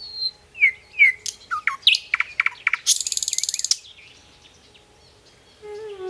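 Songbirds calling: a few short falling chirps, then a quick burst of clicks and a fast, very high trill about three seconds in. Just before the end, a held low musical note begins.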